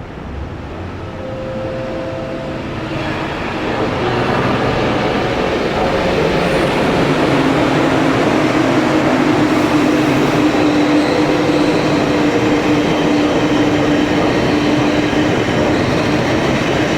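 A train passing close by on the rails: the noise builds over the first four seconds, then holds loud and steady, with a low hum running under the rolling of the wheels.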